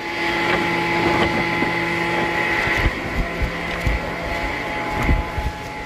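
Sawmill saw running with a steady hum until about halfway through, when the steady tone drops away, followed by a few irregular low knocks.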